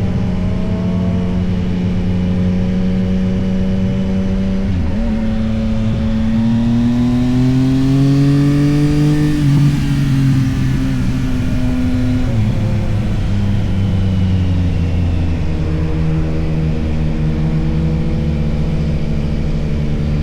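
2024 Yamaha XSR900's inline three-cylinder engine under way at a steady pace, then rising in revs from about five seconds in. The pitch drops at a gear change about halfway through, drops again a few seconds later, and the engine settles back to steady cruising.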